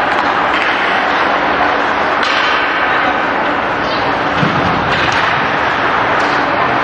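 Ice hockey game ambience: a steady din of voices and rink noise, with a few scattered knocks and thuds.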